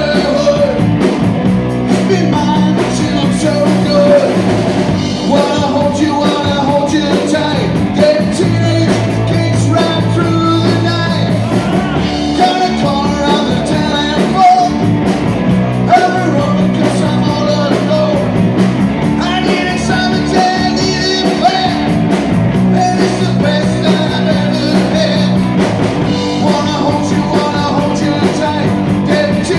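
Live rock band playing an up-tempo punk rock song, a singer over electric guitar, bass and drums.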